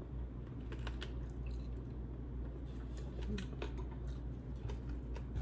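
Close-miked eating sounds: chewing with scattered short, wet mouth clicks, over a low steady hum.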